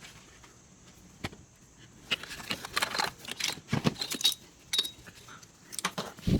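Irregular clicking and rattling of small hard parts being handled, typical of fiddling with a plastic wiring grommet, connector and harness. There is a single click about a second in, and the dense clatter starts about two seconds in.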